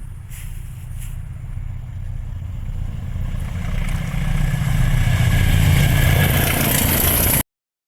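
A vehicle engine rumbling and growing steadily louder, cutting off suddenly near the end.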